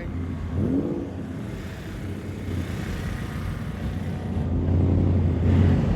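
A car engine running close by, revved up briefly about half a second in and again, louder, toward the end.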